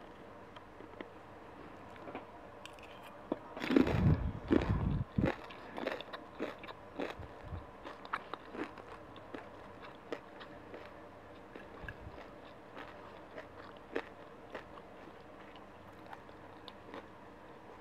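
Someone biting into extra-crispy cornstarch-coated fried tofu and chewing it. There is a burst of loud crunching about four seconds in, then softer chewing with scattered crunches and clicks.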